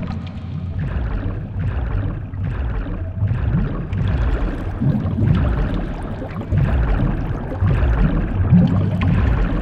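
Water sound effects: continuous gurgling and sloshing over a low rumble, swelling in pulses roughly once a second.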